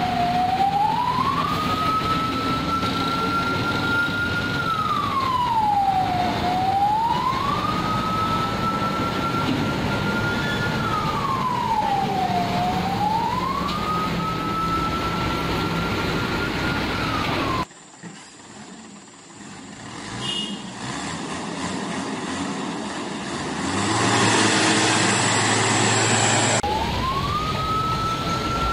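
A vehicle siren on a slow wail, rising, holding high and falling about every six seconds, over the steady rumble of traffic and truck engines. About two-thirds of the way through it cuts off abruptly to a quieter stretch where a vehicle's rumble swells up, then the wail returns near the end.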